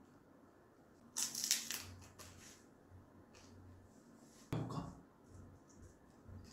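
Quiet mouth sounds of a person chewing food, with a brief crisp rustling noise about a second in and a short thump about four and a half seconds in.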